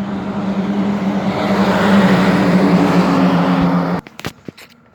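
Peterbilt semi truck driving past: diesel engine drone with tyre and road noise, swelling to its loudest about two seconds in, then cut off abruptly about four seconds in.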